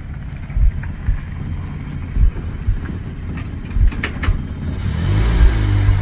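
Land Rover Series III engine running at low speed with irregular low thumps and a few light clicks, then revving up and getting louder about five seconds in as the vehicle pulls away.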